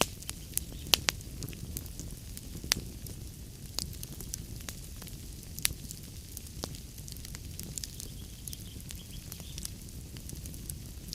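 Wood fire in a fireplace crackling: sharp pops and snaps at irregular intervals over a steady low rumble of the burning logs. The loudest snaps come about a second in, near three seconds and near six seconds.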